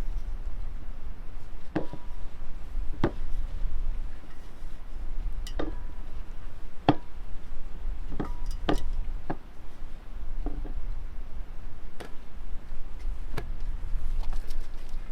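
A series of sharp knocks and clicks, about a dozen, irregularly spaced, over a steady low rumble.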